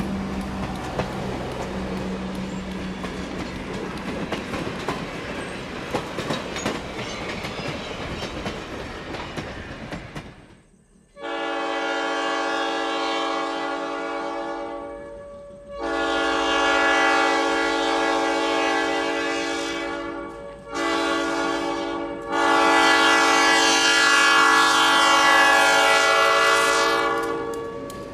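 Diesel locomotive rolling with rail clatter, then its air horn sounding a chord in the grade-crossing pattern: long, long, short, long. The horn starts about eleven seconds in, and the last long blast is the loudest.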